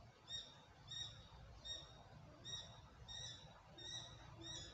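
A small bird calling faintly: a short, high chirp repeated about every three-quarters of a second.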